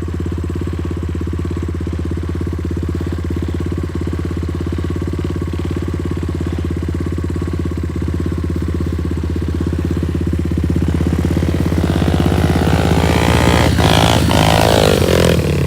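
90cc pit bike engine running steadily, then revving up and down and getting louder over the last few seconds as the bike comes closer.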